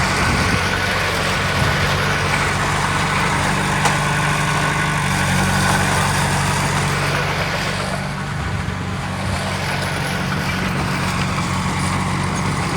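Heavy diesel engine of earthmoving machinery running steadily at an even, low pitch, dipping slightly in loudness about eight seconds in.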